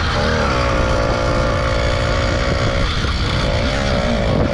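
Small motorbike engine running at steady high revs while riding, with wind rumble on the microphone. The revs sag about three seconds in and pick back up near the end. It is geared with a newly swapped sprocket that the rider feels has cost it power.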